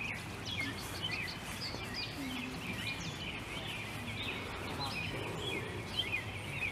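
Several birds calling at once in a busy chorus of short, quick chirps.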